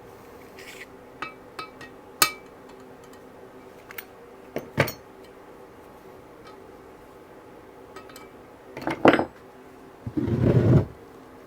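Metal tools and engine parts clinking and knocking on a workbench: a few scattered sharp clinks, a quick cluster of knocks about nine seconds in, then a longer, lower scrape near the end. A faint steady hum runs underneath.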